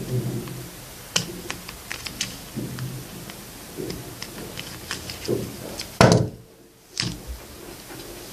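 Small plastic model-boat parts being handled and fitted by hand: scattered light clicks and taps, with one louder knock about six seconds in, after which the sound drops out for under a second.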